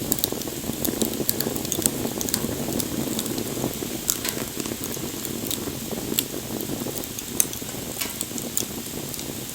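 Wood bonfire burning: a steady low rush of flames with frequent sharp crackles and pops from the burning wood.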